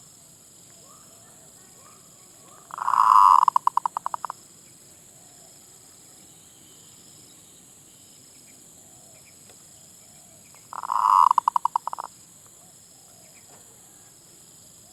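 Zebra dove (merbuk) cooing twice, about eight seconds apart: each call is a rapid trill of about a second and a half that breaks into separate staccato notes at the end.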